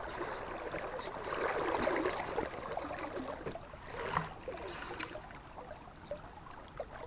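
River water flowing and gurgling, with irregular splashes and small clicks that swell for a moment about a second in.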